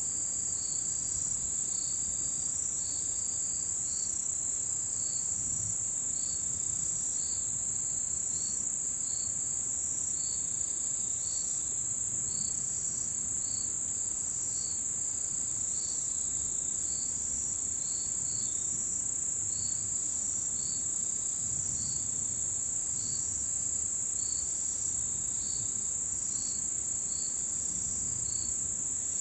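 Autumn insects calling in a chorus: a steady, high-pitched continuous trill, with a second insect's short chirps repeating a little lower, about every 0.7 s.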